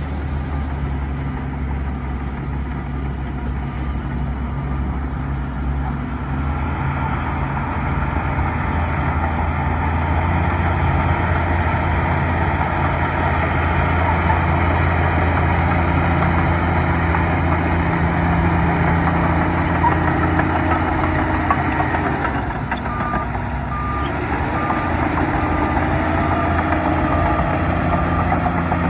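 Bulldozer's diesel engine running steadily, growing louder about seven seconds in and easing briefly near the three-quarter mark. During that dip a reversing alarm beeps about twice a second for a few seconds.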